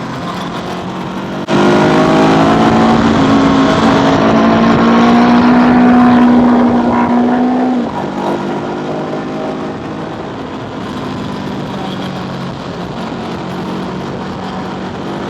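Motor scooter engine opened up with a sudden rise in loudness about a second and a half in, its note climbing a little for several seconds, then falling back to a quieter steady run about eight seconds in, with wind noise over the ride.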